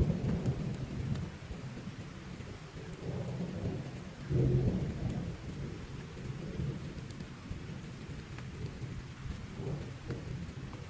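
Thunder rumbling over steady heavy rain, with a loud rumble at the start and another about four seconds in.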